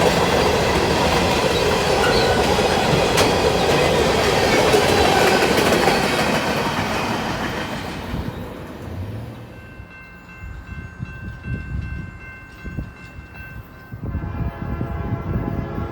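A Norfolk Southern train passes close by with a loud rumble and clatter of wheels on rail, which fades away over the first half. Then a train horn sounds at a distance, a steady chord that grows louder near the end.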